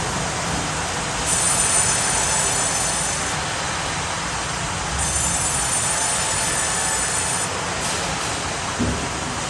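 Sawmill machinery running steadily, with the saw blade whining high twice as it cuts through oak; a short knock near the end.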